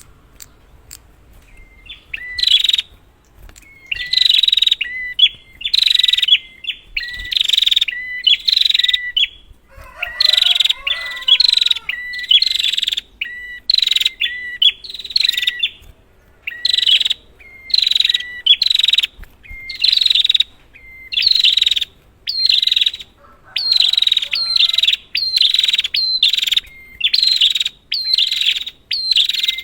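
Prinia (prenjak) calling: a long, loud run of harsh, buzzy notes at about one a second, each led by a short clear pip. A fainter, lower bird call is heard about a third of the way in.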